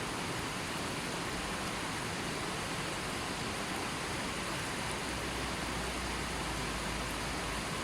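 River water flowing steadily over its bed, a continuous even rushing.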